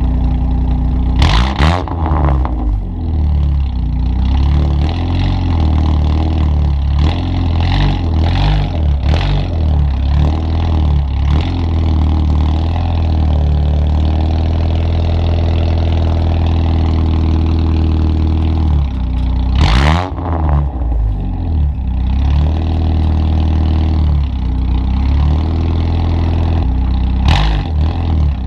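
Chevy S10 pickup's loud custom full exhaust, catalytic converter drilled out, with the warmed-up engine pulling hard down the road. The exhaust note drops and climbs again sharply about a second and a half in, about twenty seconds in, and near the end, with a slow rise in pitch in between.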